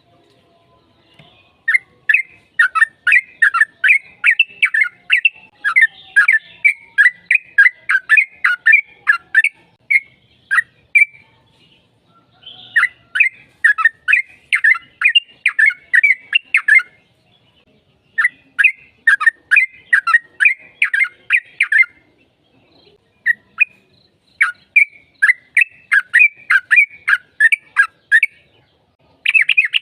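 Yellow-vented bulbul (trucukan) singing long runs of quick, repeated chattering notes. There are four runs, with short pauses between them.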